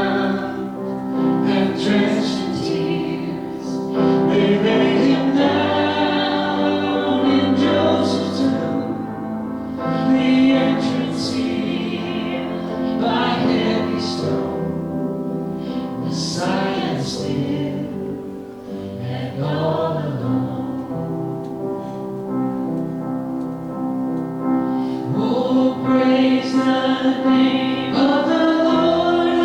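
A congregation singing a modern hymn together, many voices in unison on a flowing melody.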